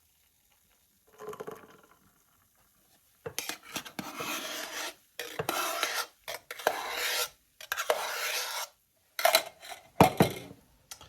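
Frothed milk being added to an espresso from the milk jug: a scraping, rubbing sound, a short faint stroke about a second in, then several longer rasping strokes.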